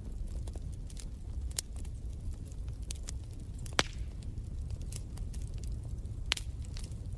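Wood fire crackling in a fireplace: a steady low rumble of the flames with irregular snaps and pops, two louder pops about four and six seconds in.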